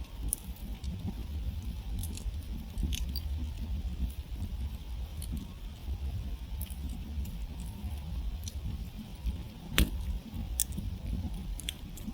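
Wood campfire crackling, with irregular sharp pops over a low steady rumble of the flames. The loudest pop comes near the end.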